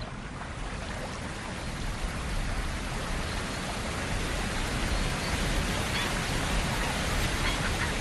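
Rushing water of the McNeil River, a steady rush that grows gradually louder.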